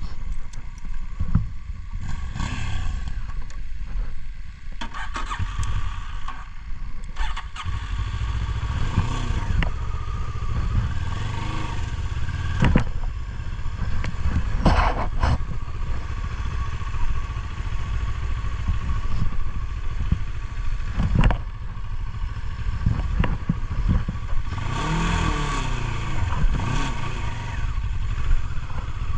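Motorcycle engine running under a heavy low rumble, rising and falling in pitch as it revs up and eases off a few times, with scattered sharp knocks and clatter.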